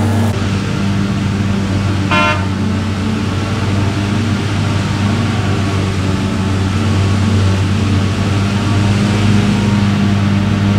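Heavy farm machinery diesel engine running steadily at a constant note, with one short horn toot about two seconds in.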